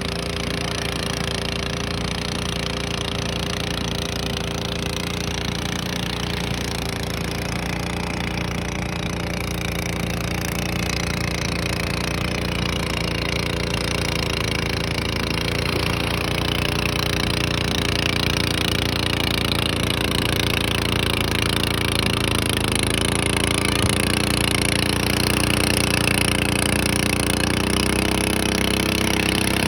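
A small engine running steadily, with shifts in pitch about two-thirds of the way through and again near the end, growing gradually louder.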